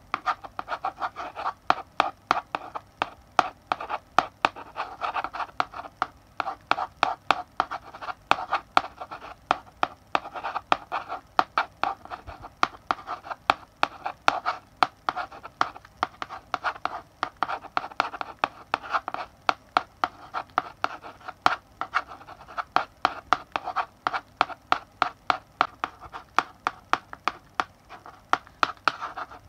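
Chalk writing on a blackboard: quick taps of the chalk tip and short scratchy strokes, several a second with uneven spacing, running on without a break.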